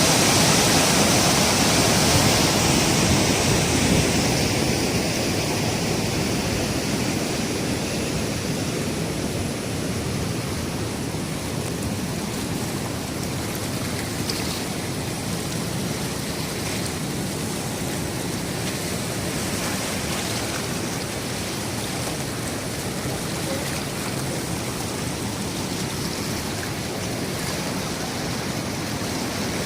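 Floodwater rushing in a swollen waterfall stream: a steady, even rush of water, a little louder for the first few seconds.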